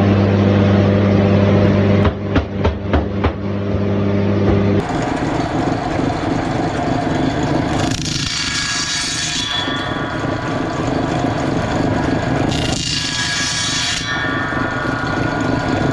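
Sawmill machinery: a motor hums steadily, with four or five sharp wooden knocks about two seconds in. Then the sound switches abruptly to a noisy machine running, with three surges of high, hissing cutting noise, each a second or two long.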